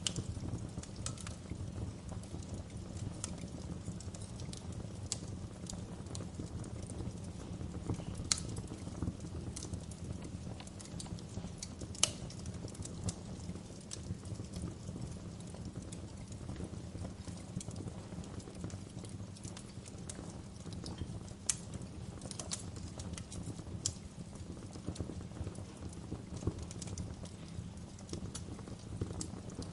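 Wood fire crackling in a fireplace: a steady low rumble of burning with frequent small snaps and a few louder pops scattered through.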